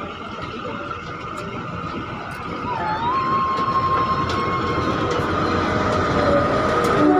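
Narrow-gauge diesel train of the Kalka–Shimla line pulling into the station, its locomotive and coaches rumbling and growing louder as they pass close by. A high steady squeal joins about three seconds in and holds for about two seconds.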